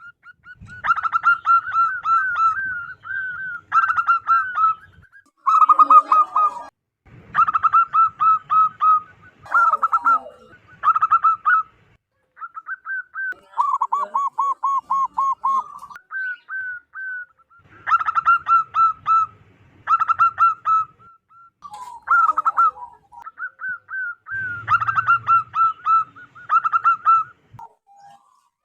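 Zebra dove (perkutut) cooing: phrase after phrase of rapid, staccato coos, each phrase a second or two long, with short pauses between.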